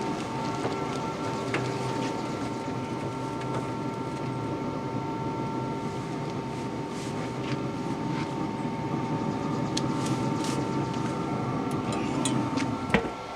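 A steady machine hum with a few faint clicks, ending in one sharp click near the end.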